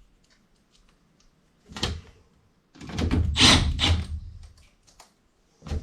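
Sheet-metal parts of an evaporator coil cabinet being handled and slid against each other, in three scraping bursts, the longest and loudest in the middle.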